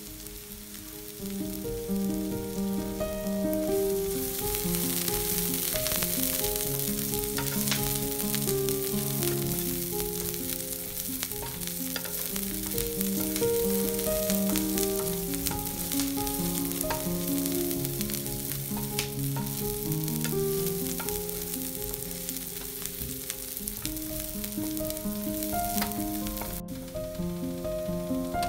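Diced onion sizzling in hot oil on the non-stick plate of a Bruno electric hot plate, stirred now and then with a wooden spatula that scrapes the plate. The sizzle comes up about a second in. Soft piano music plays throughout.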